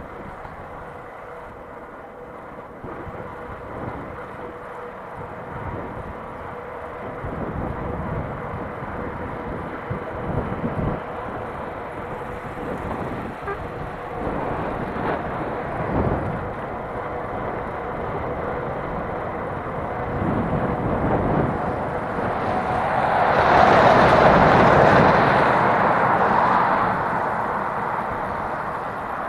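Strong headwind buffeting the microphone during a mountain-bike ride, an uneven rushing with low gusty thumps. About three-quarters of the way through, a louder rushing swell builds, peaks and fades over a few seconds.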